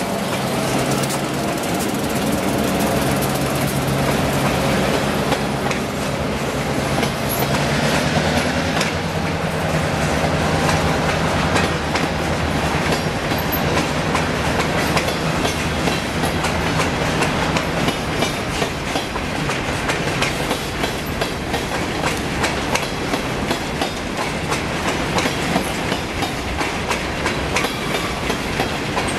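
Freight train's hopper cars rolling past at close range, their wheels clacking over the rail joints in a steady rhythm. A low diesel engine hum from the departing locomotives fades out over the first dozen seconds, and the sharp wheel clacks stand out more in the second half.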